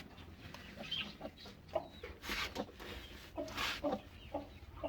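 Hen clucking in short, scattered calls, with two brief rustles about two and a half and three and a half seconds in.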